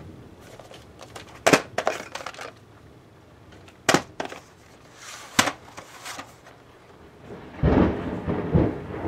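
A few sharp plastic clicks from VHS tape cases being handled, then near the end a low rumble of thunder lasting over a second.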